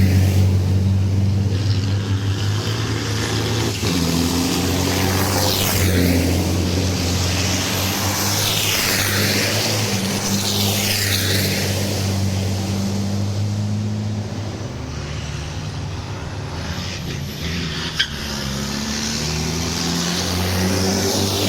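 Racing trucks at a race circuit passing one after another, each sweeping up and then down in pitch as it goes by, over a steady low engine drone. A single sharp click comes near the end.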